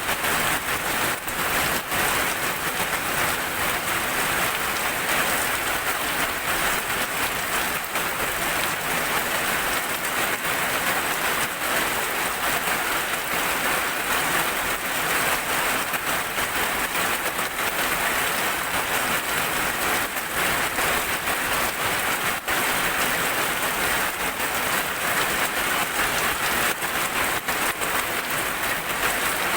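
Steady heavy rain: a dense, even hiss of falling water with many small, sharp drop hits scattered through it.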